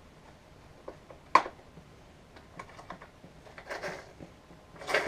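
Scattered clicks and knocks of a Samsung upright vacuum's parts being handled during reassembly. One sharp knock comes about a second and a half in, with light ticks after it and rustling handling sounds near the end.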